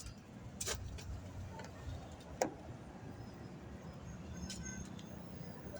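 Quiet background hum with a few faint, sharp clicks or taps.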